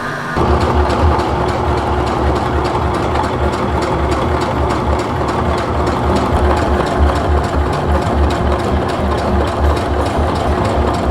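Electric sewing machine running steadily through cotton canvas, a fast even rhythm of needle strokes over a motor hum, starting about half a second in.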